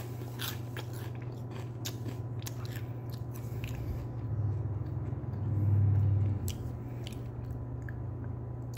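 A person chewing a mouthful of baked rice-and-corn puffs, with crisp crunches coming thick in the first few seconds and more sparsely after.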